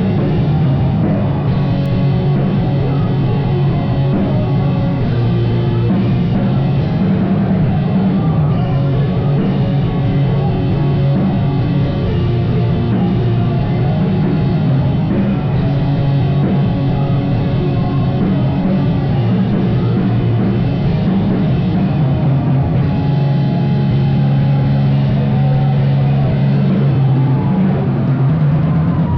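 Live rock band playing loud, dense instrumental music with a full drum kit, its heavy low end steady throughout.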